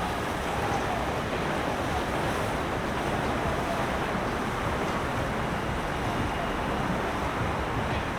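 Steady rushing noise of wind and moving water, with wind buffeting the microphone.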